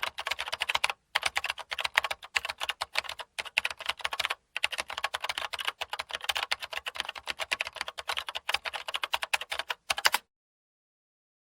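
Rapid, irregular clicking in quick runs broken by short pauses, starting and stopping abruptly and cutting off about ten seconds in.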